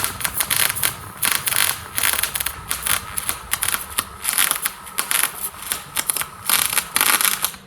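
Electric welding arc crackling and spitting in a string of short bursts with brief pauses between them, as weld is laid on the steel bucket.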